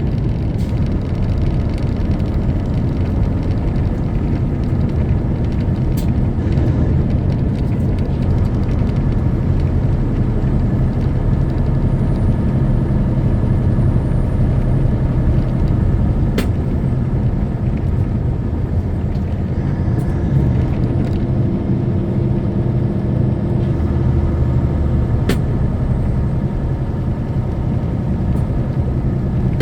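Semi truck driving at steady speed: the diesel engine runs steadily under road noise, with a few single sharp clicks. The engine note changes about two-thirds of the way through.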